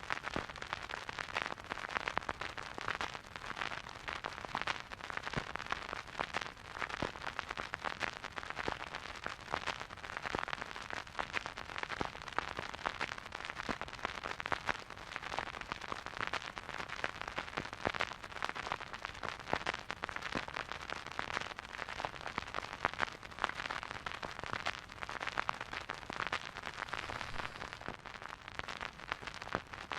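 Surface noise of a vinyl record playing a silent groove on an old record player: a dense, steady crackle of small clicks and pops over a soft hiss, from the stylus running through dust and wear in the groove.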